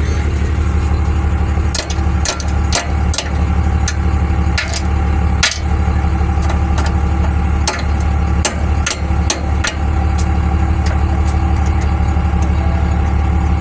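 An engine idling steadily, with sharp knocks at irregular intervals, about a dozen of them, clustered in the first two-thirds.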